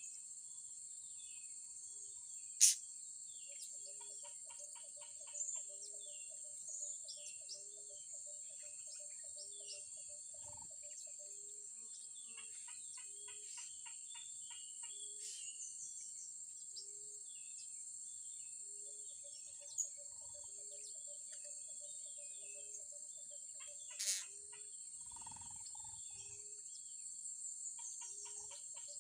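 Many short, high, squeaky chirps of blue-crowned hanging parrots come and go over a constant high insect drone. Beneath them a low note repeats about once a second alongside a faster pulsing trill, and two sharp clicks stand out, about three seconds in and near the end.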